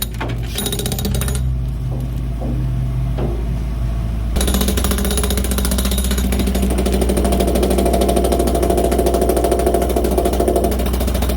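Chipping hammer rattling rapidly against hardened concrete in a ready-mix truck. It stops about a second and a half in and starts again a little after four seconds. A steady engine hum runs underneath throughout.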